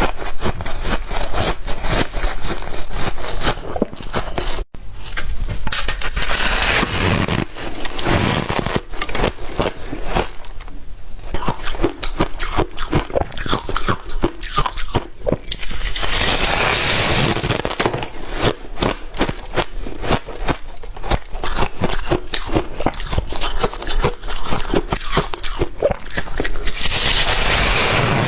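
Close-miked crunching of ice being bitten and chewed: a dense, unbroken run of sharp cracks and crackles, swelling louder three times.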